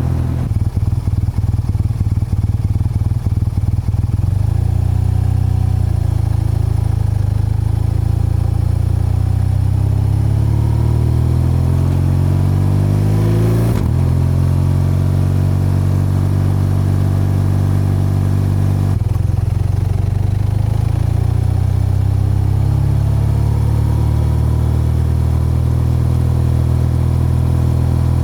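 BMW R12's boxer-twin engine and exhaust pulling away from low revs, the pulses rising steadily in pitch for about fourteen seconds before an upshift drops the revs. A second shift comes a few seconds later, then the engine holds steady at cruising speed.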